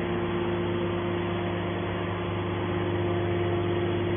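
Hydraulic scrap metal baler running with a steady machine hum and a constant tone over it.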